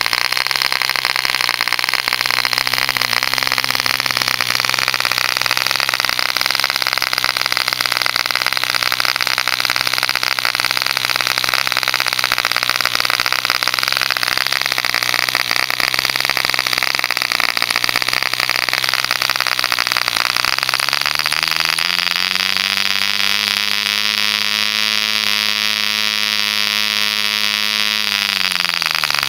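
Homemade Boddo Mills 0.75 cc contra-piston model diesel engine running steadily with a loud, high-pitched buzz. About two-thirds of the way in, a lower hum rises in pitch, holds, and drops away just before the end.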